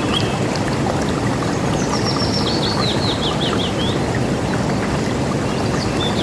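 River water rushing steadily, with songbirds singing over it. About two seconds in, one bird gives a quick run of repeated falling notes.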